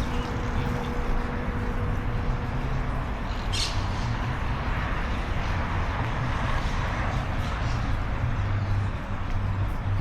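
Steady outdoor background noise with a low rumble. One short, high-pitched sound stands out about three and a half seconds in.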